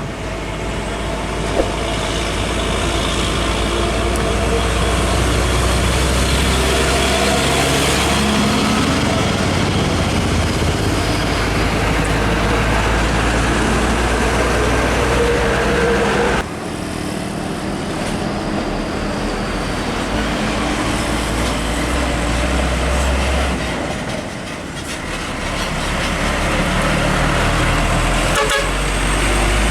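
Heavy diesel trucks running past at close range, with horn toots among the engine and road noise. The sound breaks off abruptly about sixteen seconds in and picks up again.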